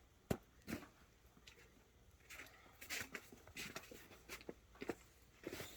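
Snow crunching and scraping in scattered short crunches, the sound of snow being handled or trodden while a snowman is built.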